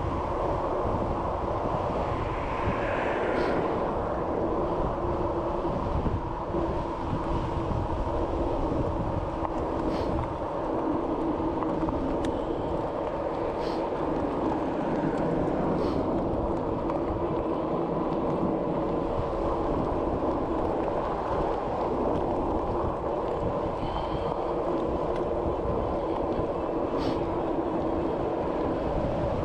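Steady road and wind rumble from a bicycle being ridden, heard through a GoPro camera riding along on it, with a few faint ticks now and then.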